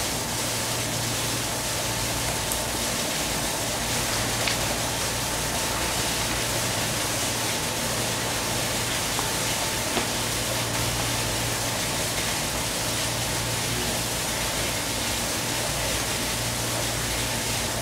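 A machine running steadily: an even rushing noise with a low hum underneath and a faint steady whine, unchanging throughout.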